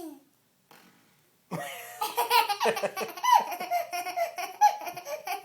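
Young girl's voice, silent at first, then from about a second and a half in she laughs and makes fart noises by blowing into an empty applesauce container.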